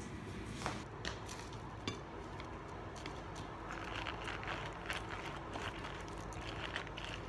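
Lemon half being twisted and pressed on a plastic citrus reamer: a run of quick scraping, squishing strokes from about halfway in. A few light clicks before that.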